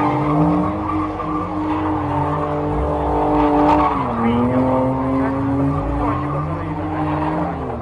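BMW E30 engine held at high revs while its tyres spin and squeal. The revs drop a step about four seconds in, hold, then fall away near the end.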